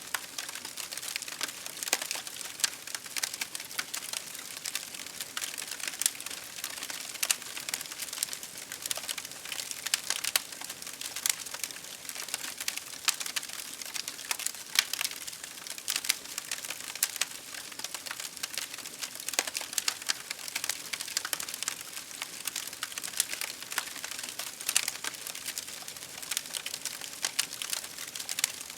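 Campfire crackling and popping: many sharp, irregular crackles a second over a steady hiss.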